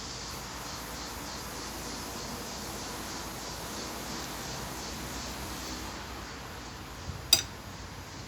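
Steady hiss of background noise, with one sharp click about seven seconds in.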